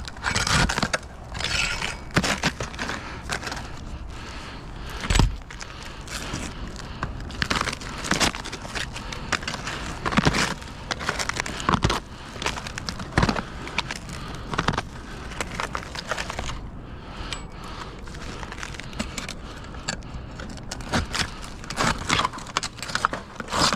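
Irregular clattering and clicking of small hard objects, with a few louder knocks, over a steady low background hum.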